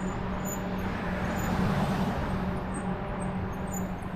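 Road traffic and rushing noise heard while riding an e-bike along a city street, with a steady low hum and a slight swell about one and a half seconds in.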